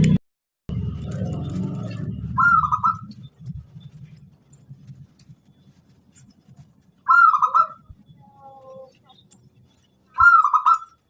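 Zebra dove (perkutut) cooing: three short warbling coo phrases, about two and a half seconds in, about seven seconds in and near the end, with fainter softer notes after the second. A low rumble runs under the first three seconds.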